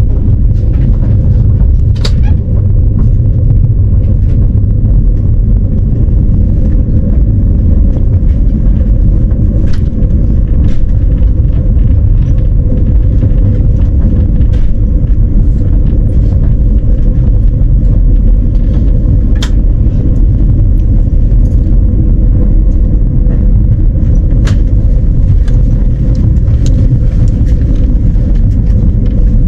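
Passenger train heard from inside the carriage: a steady, loud low rumble with a constant hum and scattered sharp clicks.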